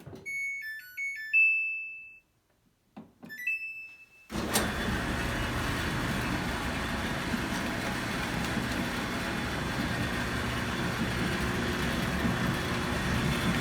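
Samsung dryer's control panel playing a short beeping tune, then a second shorter one. About four seconds in the dryer starts and runs steadily with a tinny buzzing rattle, which the owner traced to a loose round inspection plug in the floor beside the heater.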